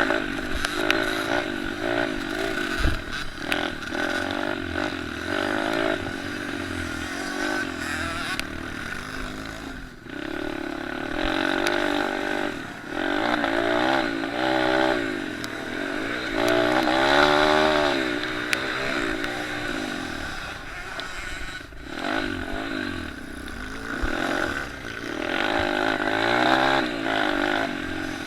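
Several small off-road motorcycle engines, pit bikes and mini motocross bikes, racing together: overlapping engines revving up and dropping back again and again as the riders accelerate and shift.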